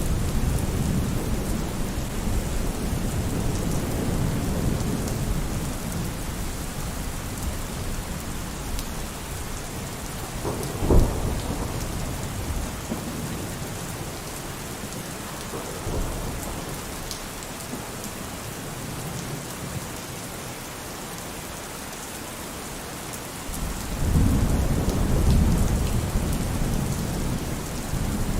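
Steady heavy rain with rolling thunder: a rumble dies away over the first several seconds, a sharp thunderclap about 11 seconds in and a softer one around 16 seconds, then a new loud rumble rolls in near the end.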